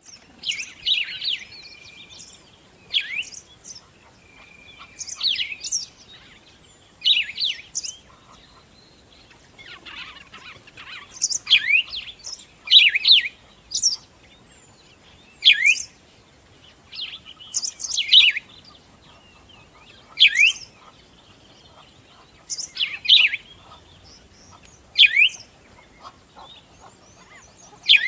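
Birdsong: short phrases of quick sweeping whistled notes, repeated about every two seconds.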